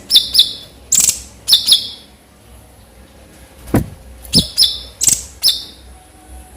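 Cucak cungkok bird calling in sharp, high, clipped notes delivered in quick bursts of two or three, with a pause in the middle. One or two low knocks come about four seconds in.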